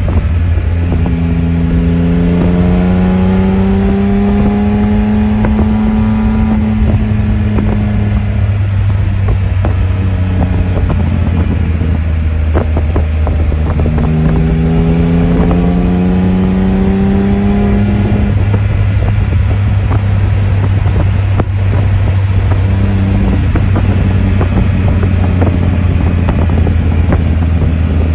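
Can-Am Spyder F3's three-cylinder engine running under way, its note rising slowly twice as it pulls, over heavy wind buffeting on the microphone.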